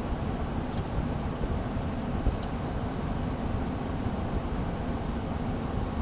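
Steady cockpit noise of a Beechcraft Premier I business jet climbing out after takeoff: an even low rumble of airflow and its twin turbofan engines. Two faint clicks come about one and two and a half seconds in.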